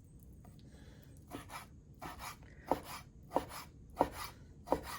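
Sliced chicken breast being mixed in a bowl with egg white, cornstarch and oil: a run of short wet slapping strokes, roughly one every two-thirds of a second, starting about a second in.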